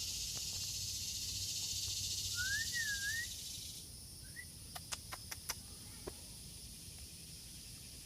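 Outdoor ambience: a steady high hiss that cuts off about four seconds in, with a short wavering whistled bird call and a second brief chirp. A quick run of faint clicks comes around the middle.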